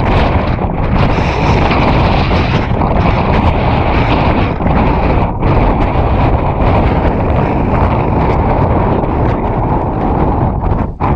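Strong wind buffeting the microphone: a loud, continuous rushing noise with a short lull near the end.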